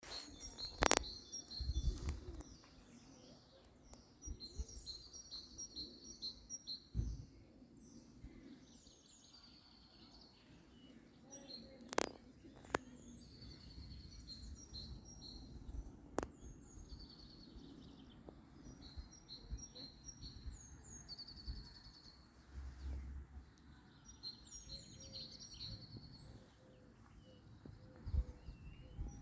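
Small songbirds chirping and singing in short, high, repeated phrases, over an uneven low rumble. A few sharp clicks cut in, the loudest about a second in and again near twelve seconds.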